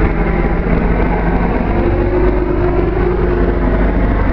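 A truck engine idling steadily, with a low, even hum.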